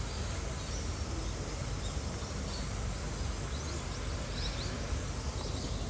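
Steady outdoor background noise with a low rumble, and a few faint, brief bird chirps above it, a cluster of them about three and a half seconds in.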